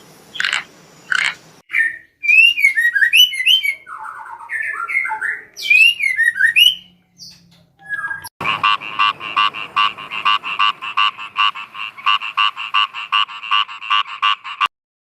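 Animal calls in quick succession: a few croaks at the start, then a jumble of bird chirps and squawks, then from about eight seconds in a fast, even run of pulsed calls, about five a second, that cuts off sharply near the end.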